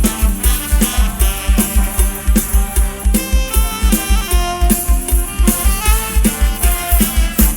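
Instrumental break of Isan mor lam folk music: a steady kick-drum beat about four times a second under a melodic instrumental line.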